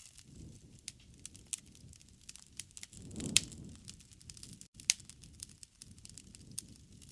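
Wood fire crackling with irregular sharp pops over a soft low rush of flame, and one louder pop about three seconds in.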